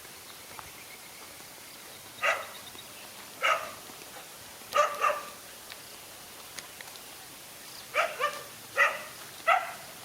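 Dog barking: about eight short, sharp barks in two bouts, four from about two seconds in and four more near the end, over a steady hiss.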